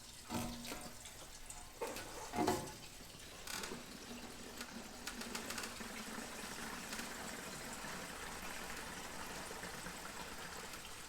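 Fuel being poured into a sand rail's fuel tank, a steady pouring stream, after a couple of handling knocks at the start.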